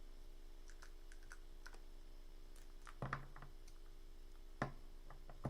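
Scattered light clicks and taps of small objects being handled on a desk, with two sharper knocks about three seconds in and a second and a half later, over a steady low electrical hum.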